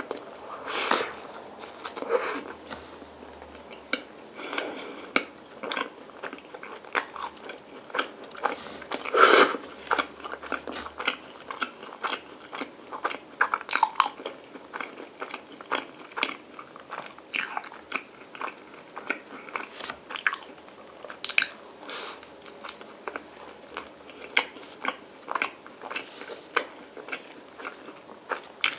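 Close-up biting and chewing of sliced bread spread with Nutella and ice cream: crunchy bites every few seconds among many small, irregular chewing clicks.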